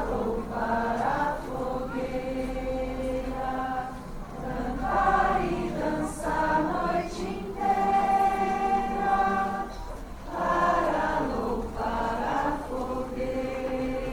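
A group of voices singing together in chorus, phrases of long held notes with short breaks between them.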